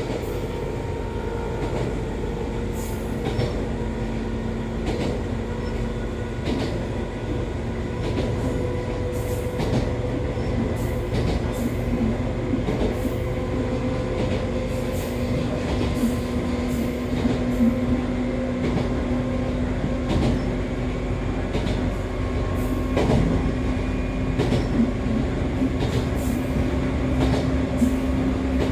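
Echizen Railway MC6101-series electric railcar MC6106, a car known for an unusual running noise, running at speed, heard from inside. The whine of its MT54 DC traction motors and gearing holds steady with its pitch edging slowly upward, over the rumble of the wheels, with irregular rail-joint clicks about once a second.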